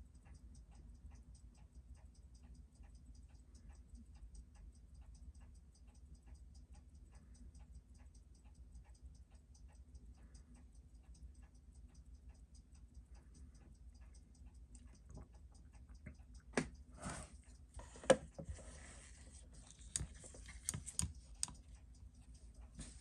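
Seiko 6105 automatic watch movement ticking fast and evenly as it runs on a timing machine, the freshly serviced movement being checked for steady amplitude. Several louder clicks and a rustling noise come in over the last several seconds.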